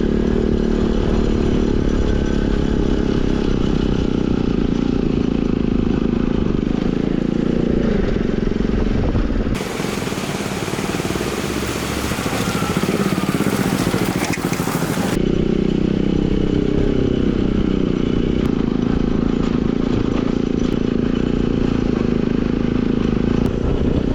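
Motorcycle engine running steadily while riding, with wind and road noise. For about five seconds in the middle, a hissing rush of noise takes over and the engine note drops back, starting and stopping abruptly.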